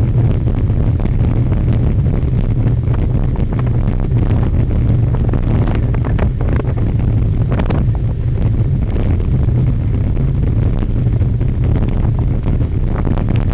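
Wind buffeting the microphone in a steady low rumble during a cyclocross race, with a few faint knocks and rattles.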